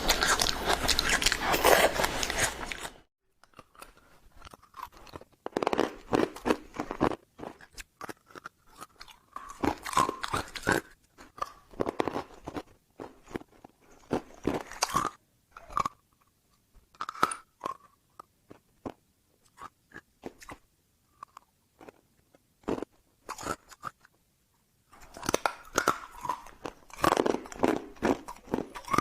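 Close-up crunching and chewing of ice. The first few seconds are dense, loud crunching. After a sudden cut come separate bites and crunches with short quiet gaps between them, and dense crunching returns near the end.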